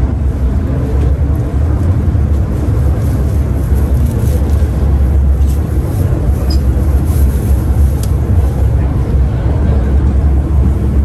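MTR M-Train electric multiple unit running underground, heard from inside the carriage: a loud, steady low rumble of wheels and motors with no distinct bangs.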